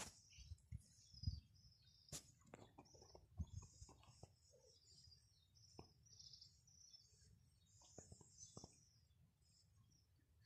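Faint small birds chirping, with scattered soft clicks and taps.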